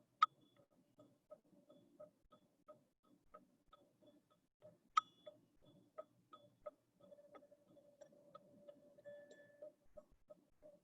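Quiet, regular ticking about three times a second, with two sharper clicks, one just after the start and one about five seconds in. About seven seconds in, a faint steady tone from the teal ZenTube comes in.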